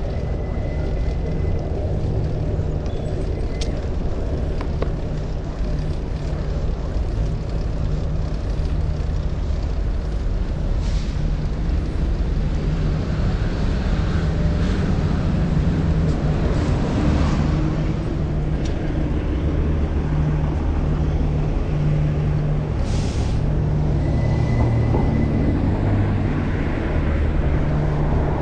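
Wind rushing over a chest-mounted action camera's microphone while riding a fixed-gear bicycle, a steady low rumble.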